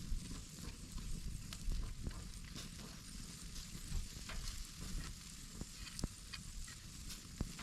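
Steak sizzling in a pan over a wood campfire, a steady hiss with scattered sharp crackles.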